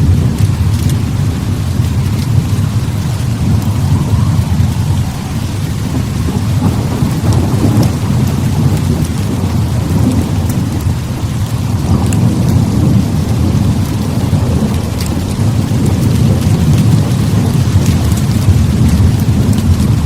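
Heavy rain with a deep rolling thunder rumble throughout, swelling and easing every few seconds, over a steady rain hiss and scattered sharp ticks.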